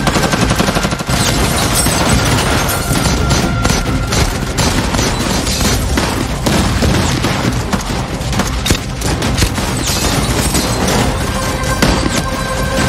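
Rapid gunfire, many shots in quick succession, over background music.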